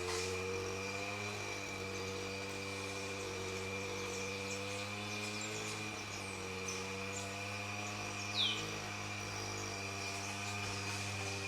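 Forest ambience: a steady low droning hum with a steady high, thin insect-like tone above it. One short descending bird call comes about eight seconds in.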